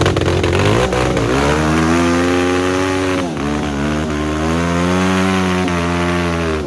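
Trail motorcycle engine revving under throttle: the pitch climbs about a second in, drops briefly near the middle, then climbs again and holds high.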